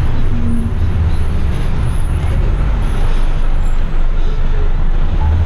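Heavy rigid truck driving along, its diesel engine and road noise making a steady low rumble.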